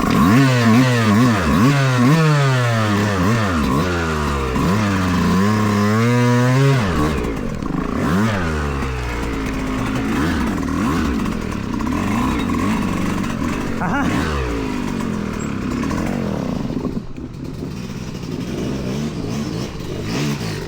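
Yamaha YZ125X 125cc two-stroke dirt-bike engine revving as the bike is ridden, its pitch climbing and dropping again and again over the first seven seconds, then running lower and steadier with smaller rises and falls.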